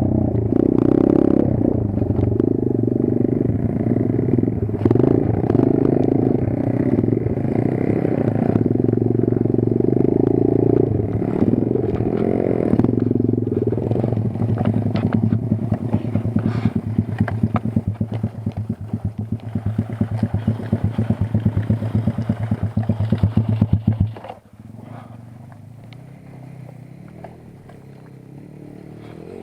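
Kayo 140 pit bike's single-cylinder four-stroke engine running, settling after about ten seconds to a slow idle with separate, evenly spaced firing strokes, then cutting off suddenly near the end.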